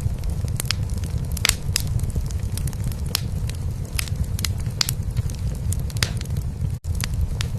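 Wood fire crackling in a fireplace, with sharp pops scattered through, over a cat's continuous low purr. The sound drops out completely for an instant near the end.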